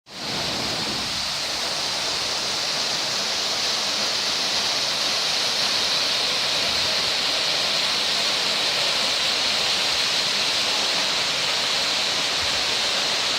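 Rushing water, a steady unbroken hiss that fades in quickly at the start.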